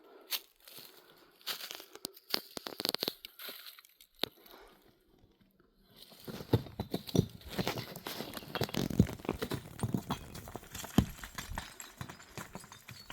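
Irregular crunching steps over stony, scrubby ground, a few scattered crunches at first, then a brief pause, then heavier, denser steps from about halfway through.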